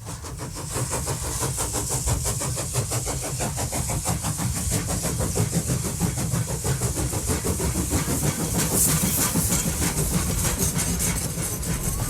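Passenger train running, heard from on board: a steady low rumble with rapid rattling and hiss, fading in at the start.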